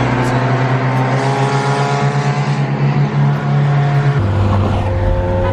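Car engine revved and held at high revs, then dropping to a lower steady pitch about four seconds in.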